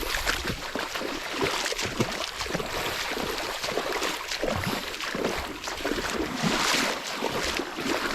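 Shallow river water splashing and sloshing, as of someone wading through it, in uneven strokes with a louder stretch near the end.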